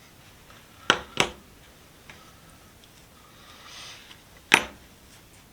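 Three sharp clicks of hard objects knocking together, two in quick succession about a second in and a louder one near the end with a brief ring, with a faint soft rub just before the last.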